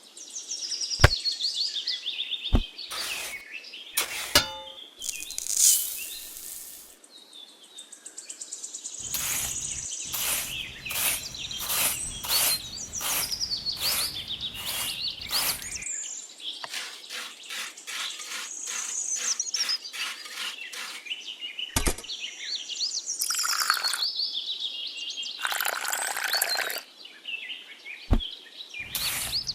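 Small birds chirping, with repeated high falling calls, over sharp clicks and a run of quick, even taps from about a third of the way in to past the middle.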